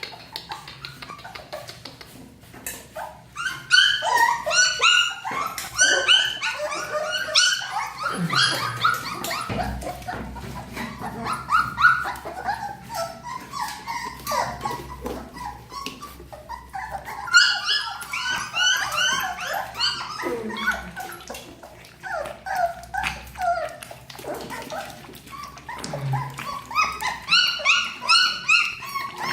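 A litter of young puppies whining and yelping: many overlapping high-pitched cries that come in busy bursts with short lulls between them.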